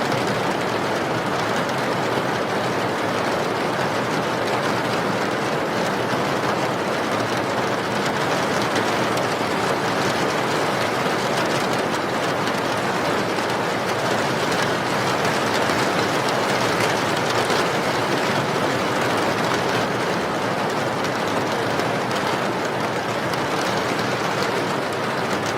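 Steady, unbroken rain noise: a dense, even hiss of falling rain with no single drops or breaks standing out.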